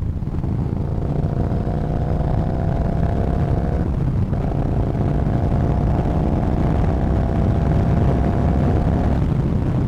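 Yamaha Bolt's 942 cc air-cooled V-twin engine pulling under acceleration, its pitch climbing slowly. It drops out briefly about four seconds in, as at a gear change, then climbs again.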